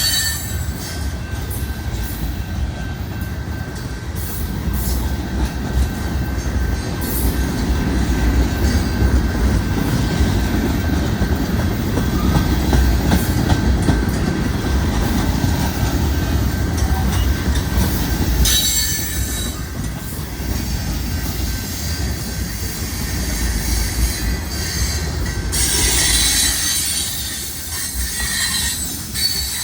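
Mixed freight train cars rolling past with a steady low rumble of wheels on rail. A high-pitched wheel squeal rises over it twice, briefly about two-thirds of the way in and again for a few seconds near the end.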